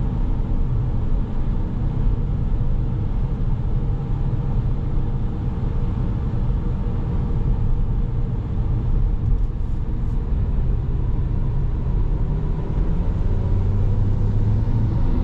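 A 2017 Volkswagen Jetta SE being driven, heard from inside the cabin: a steady low drone of its engine under way mixed with road and tyre noise. The engine note firms up and climbs slightly near the end.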